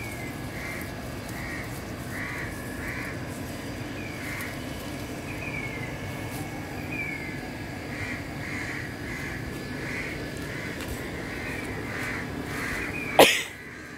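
Birds calling over and over, short notes and quick falling slides, over a steady low background rumble. A single sharp knock near the end is the loudest sound.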